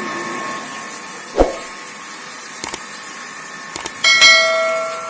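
A few knocks and clicks, then a loud metallic clang near the end that rings on like a bell for over a second. A steady hum fades out at the start.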